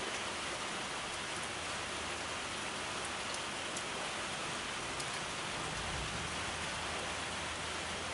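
Steady rain falling and pattering on surfaces, an even hiss with a few faint ticks of single drops.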